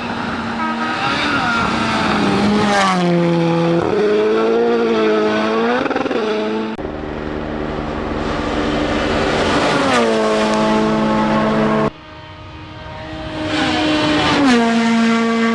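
WRC Rally1 cars' 1.6-litre turbocharged four-cylinder engines at full throttle on a special stage, the pitch climbing and dropping with gear changes and lifts. The sound is three separate shots joined by sudden cuts, about seven and twelve seconds in.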